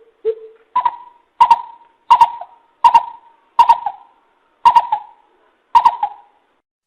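Coucal (bìm bịp) giving its deep hooting call, a series of about eight evenly spaced hoots. The first two are lower, and the rest step up to a higher pitch and repeat roughly every three quarters of a second.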